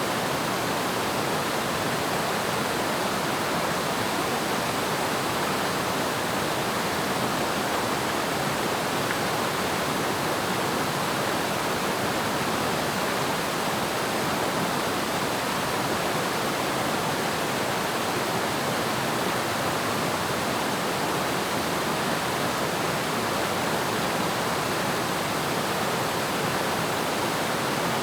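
Waterfall: water falling and splashing onto rocks and a pool in a steady, unbroken rush, with no change over the whole stretch.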